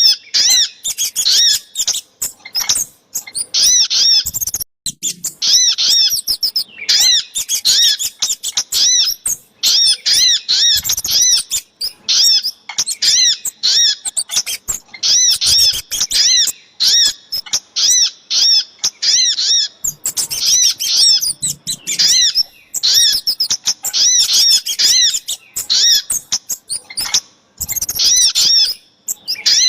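Bird-lure recording of the calls of the sogok ontong and the kemade: fast series of short, high chirps, several a second, in bursts with brief gaps.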